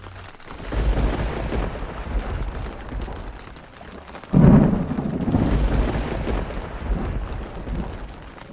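Thunder rumbling over steady rain. A first roll builds about a second in, then a sudden sharp crack about four seconds in rolls on and fades.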